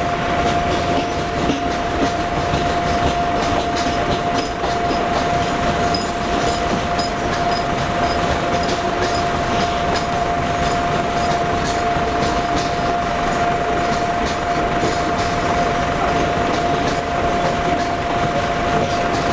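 Freight train rolling past: a steady loud rumble of wagons on the rails, with one steady high tone held throughout. Faint regular clicks come about twice a second in the middle stretch.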